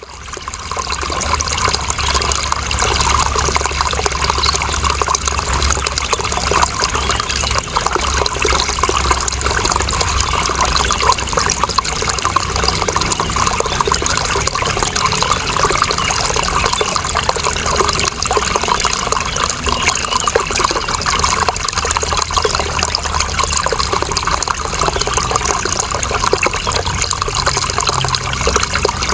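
Running water flowing and trickling steadily with fine splashing, fading in over the first second.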